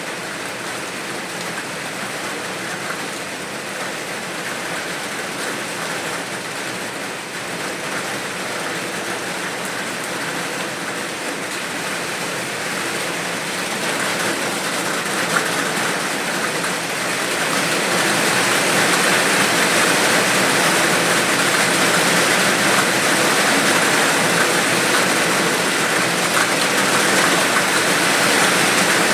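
Steady rain falling, growing heavier and louder a little past halfway through.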